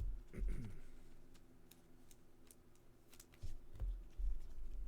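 Baseball cards and packs being handled on a table: faint scattered clicks and soft low thumps, with a brief murmur near the start.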